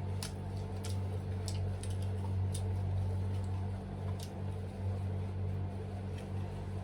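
Steady low electrical-sounding hum, with a few faint short clicks over the first few seconds.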